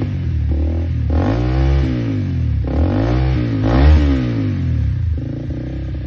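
Honda CBR250R's single-cylinder engine through an aftermarket Mojo exhaust, blipped about three times, each rev rising and falling back, then settling to idle near the end.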